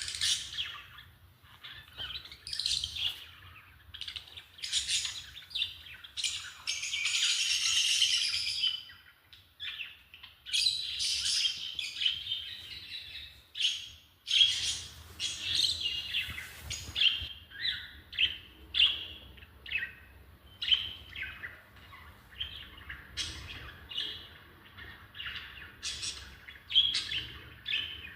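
Lovebirds chirping and chattering: a busy string of short, sharp, high calls, thickening into a continuous squabbling chatter around a quarter of the way in and again near the middle.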